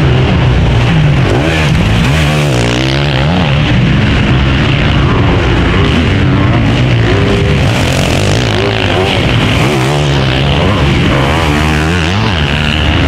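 Several motocross motorcycles racing, their engines revving up and down over one another, with bikes passing close by a few times.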